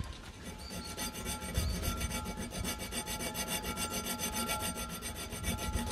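A small hand file rasping back and forth in the bottle-opener notch of a steel knife blade clamped in a vise, in quick, even short strokes, several a second. A faint steady ringing tone from the metal runs under the strokes.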